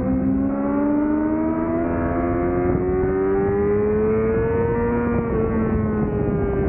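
The 2005 Yamaha YZF-R6's inline-four, with a Laser aftermarket exhaust, accelerating hard under load. Its pitch climbs steadily in one long pull for about five seconds, then eases off slightly near the end.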